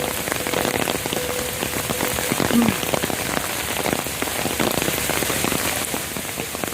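Steady rain falling, with dense drop splashes, and stormwater runoff pouring and rushing off a neighbouring property into a flooded yard.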